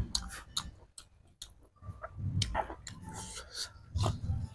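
Close-miked eating sounds: a person chewing a mouthful of food, with a string of sharp wet mouth clicks and a few soft low thumps.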